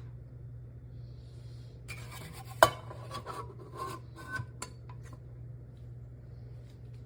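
Kitchenware being handled: clinks and knocks of metal and dishes, with one sharp loud clink about two and a half seconds in and several lighter knocks after it. A steady low hum runs underneath.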